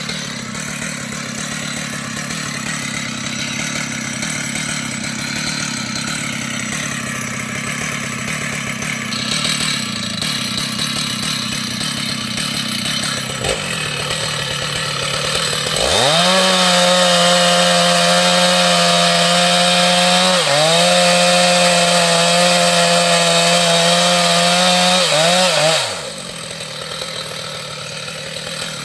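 Stihl two-stroke chainsaw running at lower speed, then revving up sharply to full throttle a little past halfway. It holds a high, steady note for about ten seconds with one brief dip, then drops back.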